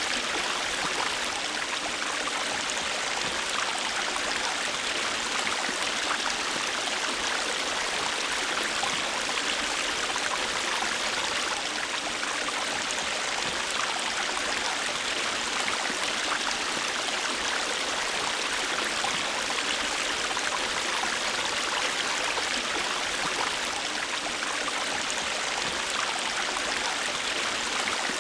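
River water flowing steadily over rocks: an even rushing hiss that stays the same throughout, with no change in level.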